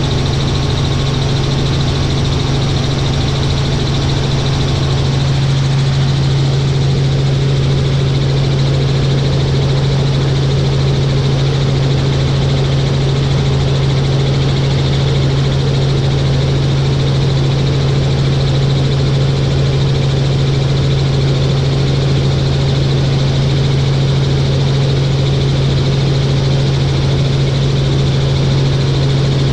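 Helicopter in flight: a steady, unchanging engine and rotor drone with a strong low hum.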